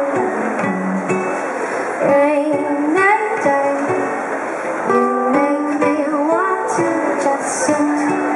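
Live solo ukulele strummed steadily while a singer sings an indie-folk melody over it.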